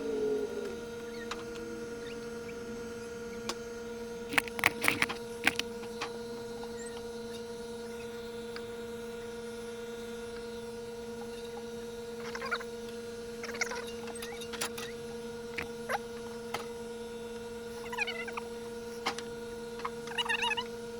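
A steady electrical hum, with scattered bursts of light clicks and clinks over it: a bright cluster about five seconds in and smaller ones later.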